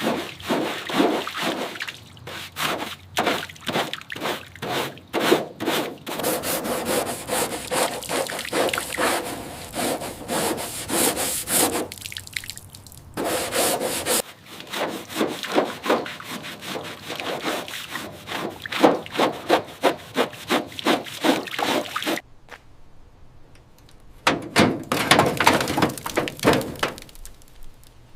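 Rapid back-and-forth rubbing strokes, with a short pause about halfway through and a longer lull near the end before a final run of strokes.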